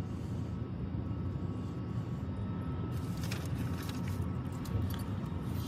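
A steady low engine rumble, with light clicks and rattles starting about three seconds in.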